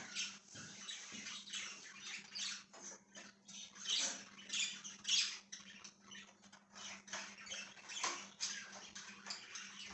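Pet budgerigars chattering: a quick run of short chirps, several a second, with a faint steady low hum underneath.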